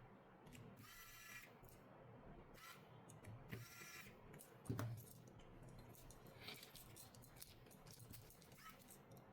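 Near silence with faint scattered clicks and taps, two brief soft whirring hisses, and one soft thump about halfway through.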